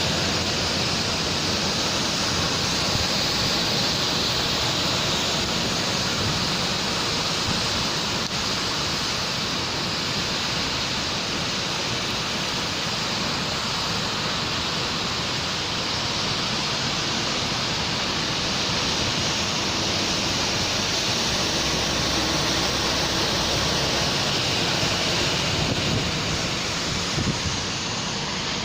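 Steady rain falling in a city street, a continuous even hiss.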